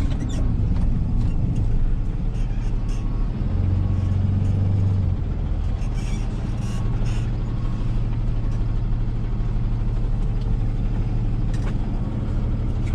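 Rollback tow truck's engine running steadily with a low hum, growing louder for a moment about four seconds in.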